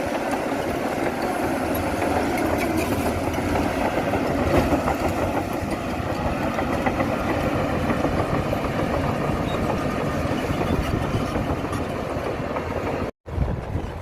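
Heavy diesel earthmoving machinery running steadily under work, an engine hum with continuous clattering, broken by a short dead silence near the end.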